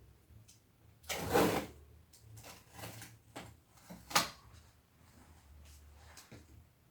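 Handling noises: a short scraping rustle about a second in, a few small knocks, and one sharp click near the middle, over a faint low hum.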